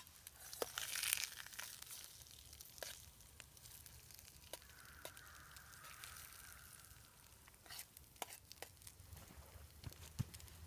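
Food frying in a pan over a campfire: a faint sizzle with scattered sharp pops and crackles, and a brief louder hiss about a second in.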